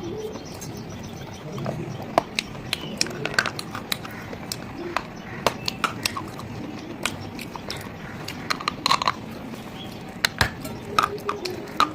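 Hard pieces being bitten and chewed close to the microphone: irregular sharp cracks and crunches, bunched more densely near the end.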